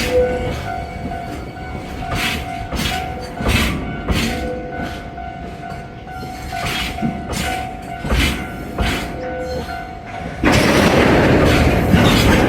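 Kintetsu electric train wheels clacking over rail joints in irregular groups, over a steady tone. About ten and a half seconds in, a loud rushing noise starts suddenly.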